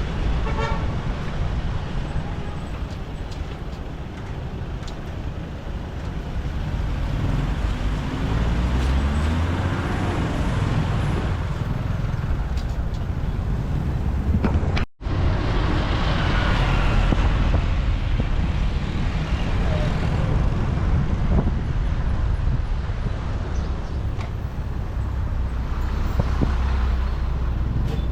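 Motorbike ride in city traffic: the engine running with road noise and passing vehicles, its pitch rising as it speeds up about a third of the way in. The sound cuts out for an instant about halfway through.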